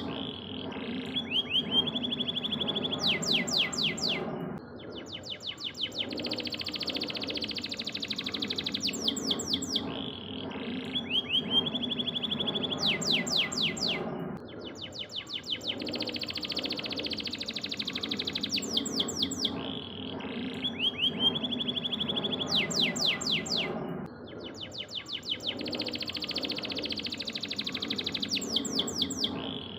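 Domestic canary singing: fast trills and rapid runs of high repeated notes, the same song phrase coming round about every ten seconds, over a steady low background hum.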